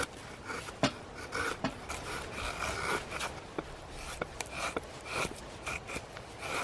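Wood fire crackling in a steamer-basket fire stand, with sharp irregular pops, among short repeated rasping sounds.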